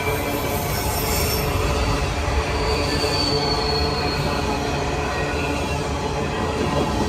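Empty freight cars of a grain train rolling past with a steady rumble of steel wheels on rail. High-pitched wheel squeal rises briefly about a second in and again around the middle.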